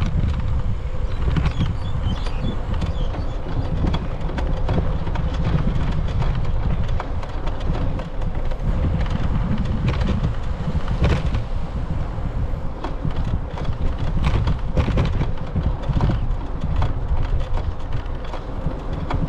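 Bicycle being ridden along a paved path: steady low wind rumble on the microphone with scattered clicks and rattles from the bike.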